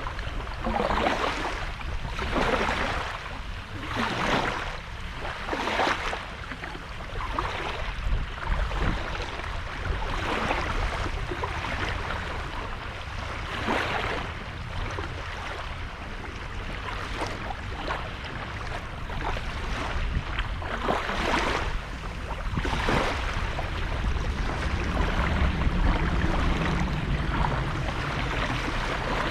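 Sea waves breaking and washing ashore, a fresh wash every second or two, over a steady low rumble.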